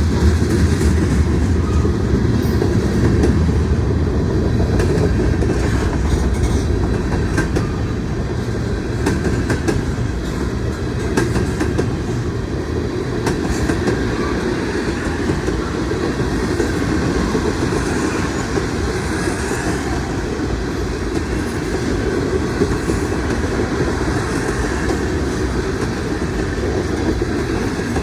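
Cars of a mixed freight train rolling past, a steady loud rumble of steel wheels on rail.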